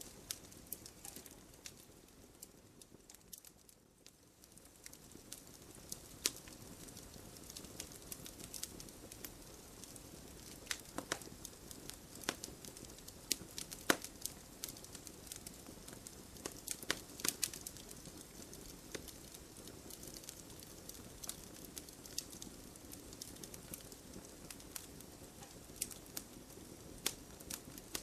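Wood campfire crackling: irregular sharp pops and snaps of burning wood over a steady low hiss, quieter for a moment a few seconds in.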